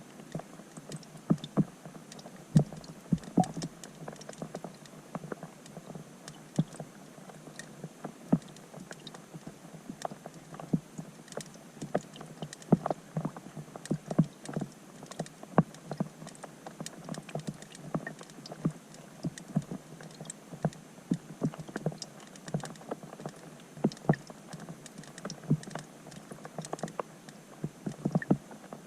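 Rain falling on a pond, heard from underwater through a GoPro's waterproof housing: a dense, irregular patter of sharp clicks and plinks as drops strike the surface, over a faint hiss.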